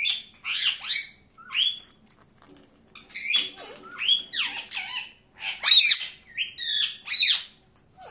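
Pet parakeet squawking and chirping: a rapid series of about ten short, high-pitched calls that rise and fall in pitch.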